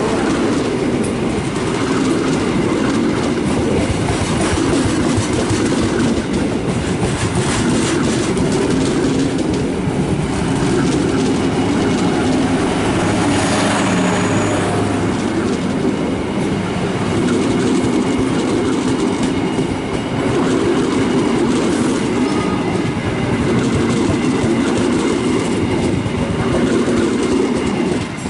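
A train passing close by, its steel wheels clattering over the rail joints in a loud, steady run.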